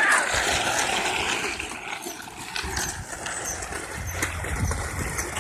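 Small motor vehicle's engine running, with a rushing noise over it that fades after a couple of seconds; the low engine rumble comes up stronger in the second half.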